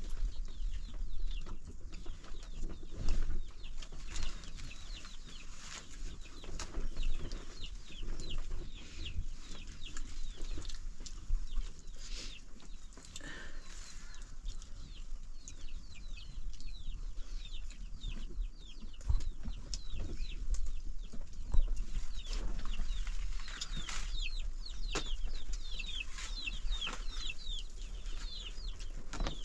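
Chickens clucking, with many short, high, falling cheeps throughout that grow thickest near the end, over a steady low rumble and scattered knocks.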